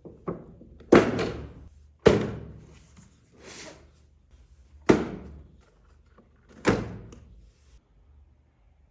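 A series of sharp thunks, five or six knocks a second or two apart, each dying away over about half a second. A softer swishing sound comes between the third and fourth.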